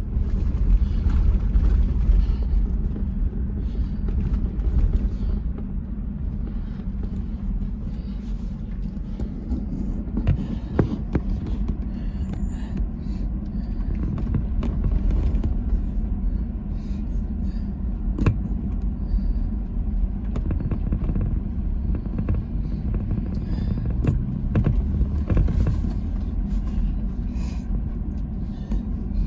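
Toyota Land Cruiser 100 series driving over a rough dirt trail: a steady low rumble with scattered knocks and rattles.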